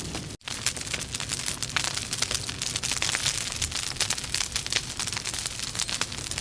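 Logs burning in a fireplace, crackling steadily with many sharp snaps. The sound cuts out for an instant just under half a second in.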